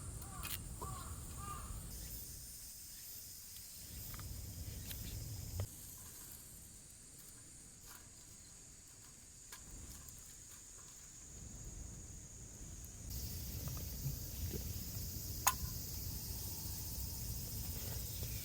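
Summer outdoor ambience dominated by a steady high chorus of cicadas whose pitch bands shift now and then, over a low rumble that swells and fades, with a few sharp clicks, the clearest about fifteen seconds in.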